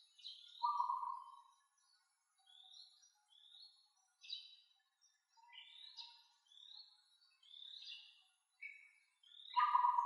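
Forest birds calling: short, high rising whistled notes repeated about once a second, with a louder, lower call about half a second in and again near the end. A faint steady high tone runs underneath.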